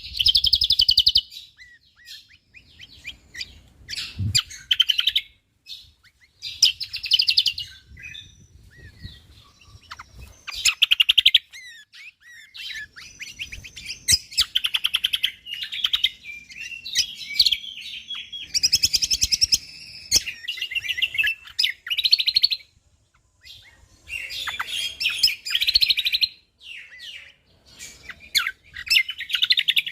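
Cucak kombok (kecial kombok) songbird singing a fast, dense run of chirps, trills and quick sweeping whistles, in bursts with short pauses between them.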